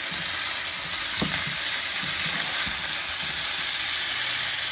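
Chicken wings sizzling in hot oil in a nonstick frying pan, a steady hiss, with a few soft knocks and scrapes as a spatula turns the wings over.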